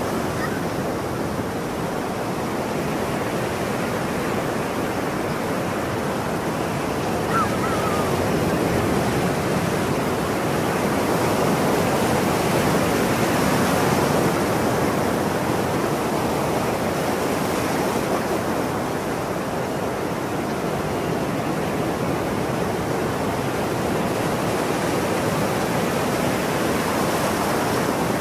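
Ocean surf: waves breaking and washing continuously, swelling slightly in the middle.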